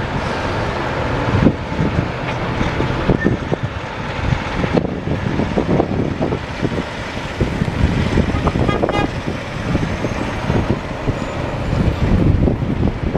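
Heavy equipment running while armour stone is loaded onto a ship, with irregular knocks and clunks throughout and a short pulsed tone about nine seconds in.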